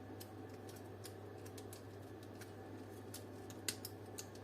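Faint scattered clicks and ticks of plastic as a stiff retaining tab on a dome light housing is pried at, over a steady low hum, with one sharper click about three and a half seconds in.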